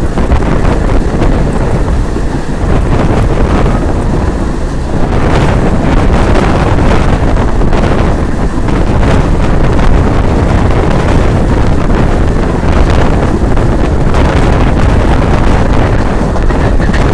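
Passenger train running at speed, its coaches rumbling and rattling over the track, with wind buffeting the microphone. The noise grows louder about five seconds in.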